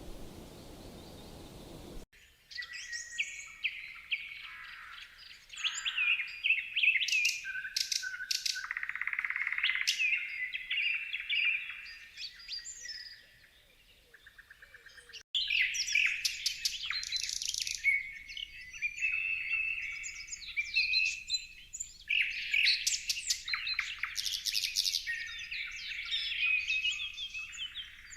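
Songbirds singing and chirping in dense, overlapping phrases of quick chirps and trills. The song starts abruptly about two seconds in, thins out briefly, and switches abruptly to another busy chorus about halfway through.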